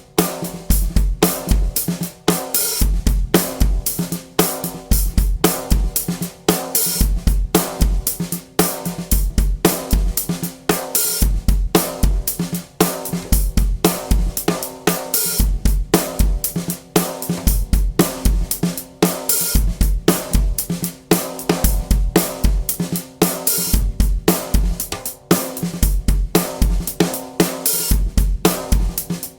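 Drum kit played in a continuous groove, featuring a 14 x 7 inch London plane wood snare drum tuned low and left unmuffled, its heads ringing on, with Remo Ambassador coated batter and hazy snare-side heads. Bass drum beats and hi-hat and cymbal hits run alongside the snare.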